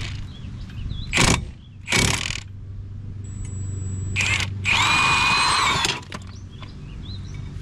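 Cordless Milwaukee impact tool running in four bursts, the last and longest about a second long with a motor whine, spinning out a 5/8-inch bolt on the front brake assembly. A steady low hum runs underneath.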